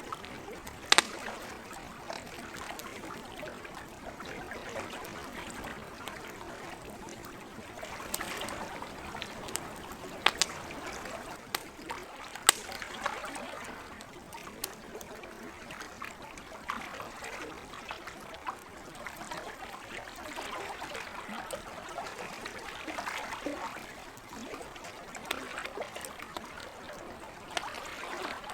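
Campfire crackling, with scattered sharp pops (the loudest about a second in, and two more around ten and twelve seconds in), over steady gentle lake water.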